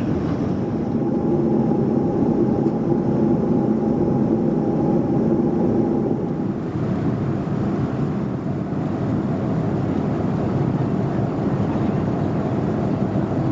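Boeing 737-400 cabin noise in cruise: the steady low roar of engines and airflow, with a steady hum over it that stops about halfway through.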